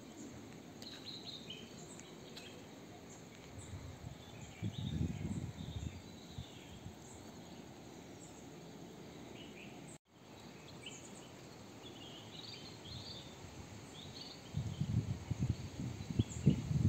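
Birds chirping and calling in short scattered phrases over a steady hiss, with bursts of low rumble about five seconds in and again near the end.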